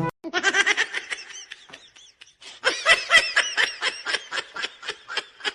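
A person laughing hard in a rapid, high-pitched giggle, with a brief pause about two seconds in.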